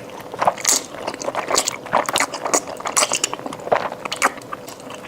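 Close-up eating sounds of a mouthful of chili-coated noodles being chewed, with irregular wet smacks and mouth clicks several times a second.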